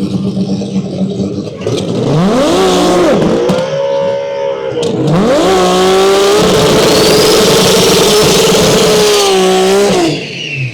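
Drag-racing car launching down the strip at full throttle. The engine note climbs and drops back at each gear change, about three and five seconds in, then holds through a long pull before falling away near the end. A steady engine idle is heard before the launch.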